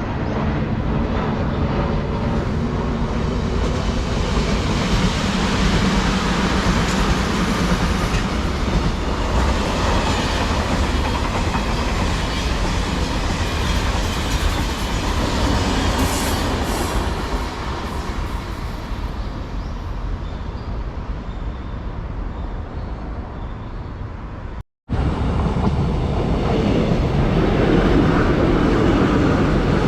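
Train running past on the track, a continuous rumble of wheels on rails. About 25 seconds in the sound cuts out for a moment, then another train passage continues, a little louder.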